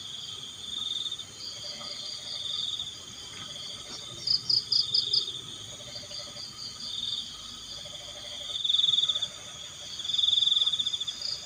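Night chorus of crickets trilling in repeated bursts, with a quick run of loud chirps about four seconds in. Underneath, frogs croak in short pulsed calls every second or two.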